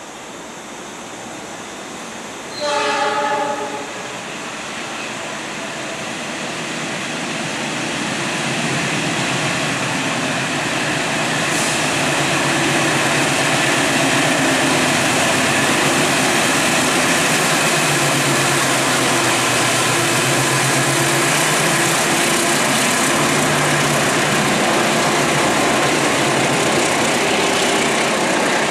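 Diesel locomotive horn gives one short blast. Then a diesel-hauled passenger train running straight through the station without stopping grows louder over several seconds and goes past steadily, engine and wheel noise together.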